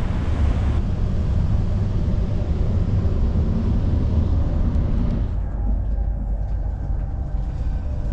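Steady low rumble of a moving vehicle heard from inside, a bus and then a train carriage. About five seconds in, the sound changes abruptly to a duller rumble with less hiss.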